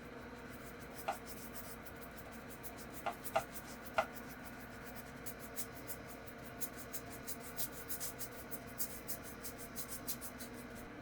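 Drawing on paper: a pen or pencil scratching in many quick, short strokes. A few faint pitched plinks sound in the first few seconds.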